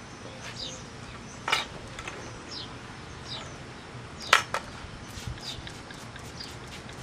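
A small bird repeats a short, high, downward-sliding chirp every second or so. Two sharp knocks stand out, one about a second and a half in and a louder one about four seconds in.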